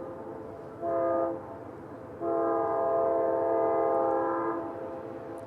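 Locomotive air horn sounding a chord of several notes: a long blast ends at the start, a short blast comes about a second in, then a long blast of over two seconds. This is the end of the long-long-short-long grade-crossing signal.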